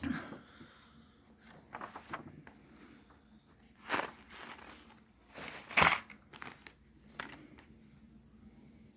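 Scattered handling noises in a small room: a few soft rustles and knocks, with two louder ones about four and six seconds in.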